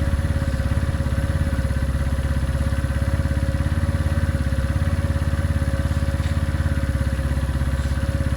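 A small motorcycle engine, the Benelli Keeway 125, idling steadily with an even, unchanging beat.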